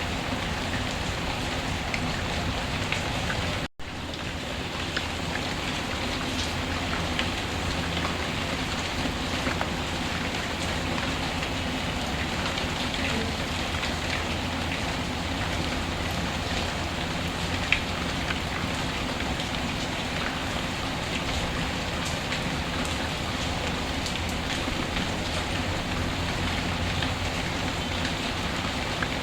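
Steady rainfall mixed with the small, scattered crackles of a wood fire. The sound cuts out briefly just under four seconds in.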